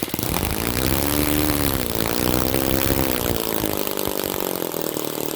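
Small four-stroke glow plug model engine (OS FS-20) running, revved up and down twice, then settling to a steady lower idle about two-thirds of the way in.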